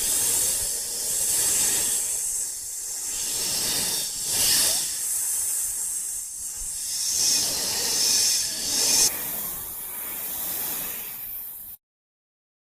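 A hissing noise with its strength in the highs, swelling and easing several times, then cutting off abruptly near the end.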